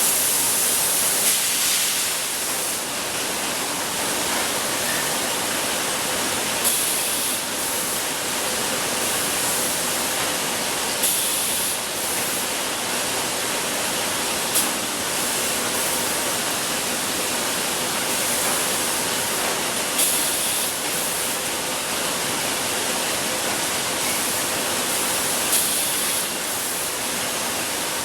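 Bottled-water production line machinery running with a steady hiss and a faint hum, broken every few seconds by short, sharp hisses.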